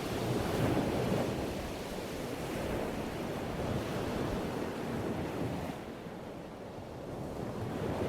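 Ocean waves washing on a shore, a steady surf noise that swells and recedes slowly, easing off about six seconds in and building again near the end, with some wind.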